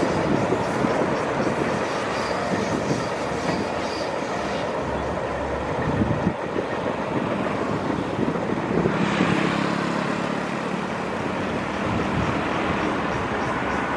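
Diesel-hauled passenger train running away along a curving track: a steady rumble of wheels on rail. A low, steady hum joins in about nine seconds in.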